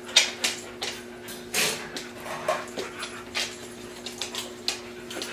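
Dog play-fighting with a cat: a string of short snuffling and scuffling sounds over a steady low hum.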